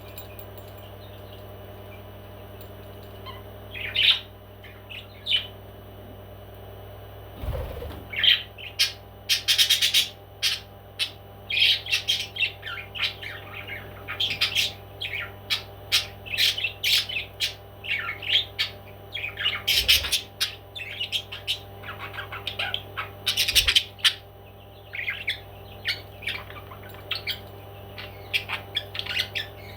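Pet parrot squawking and chattering in short repeated calls, a few at first and then almost without pause from about eight seconds in, with a few soft thumps among them.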